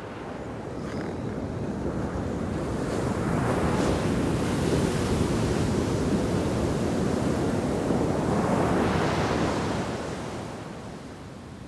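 Ocean surf breaking on the shore break of a sand beach: the rush of water builds over a couple of seconds, stays loud for several seconds, then fades away near the end.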